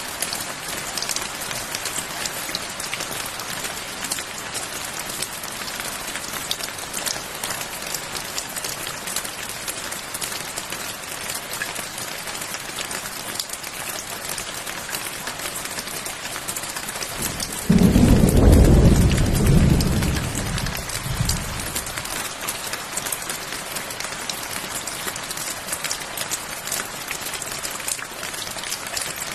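Steady rainfall with a continuous hiss of drops on surfaces. About two-thirds of the way through, a single thunderclap breaks in suddenly as a loud low rumble and dies away over a few seconds.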